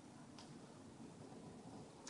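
Near silence: faint room tone with a single soft click about half a second in.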